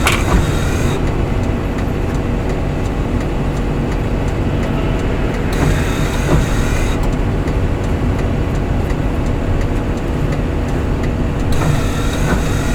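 Snow-removal vehicle's engine running steadily with a low drone and steady hum. A hiss comes in three times for a second or so, near the start, about halfway and near the end.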